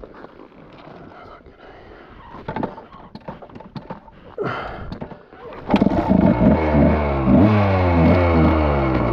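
Scattered scrapes and clicks, then about six seconds in the dirt bike's engine fires and is revved up and down in repeated rising and falling blips.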